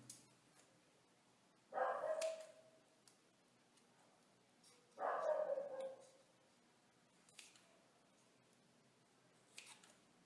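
A dog barking twice, drawn-out barks that drop in pitch, with a few faint sharp clicks in between.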